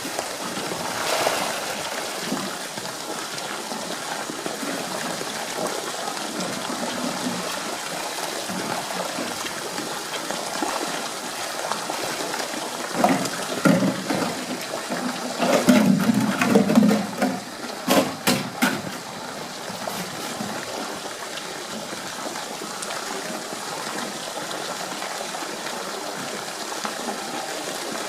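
Steady rush of running water, with a stretch of louder irregular sounds about halfway through and a few sharp knocks soon after.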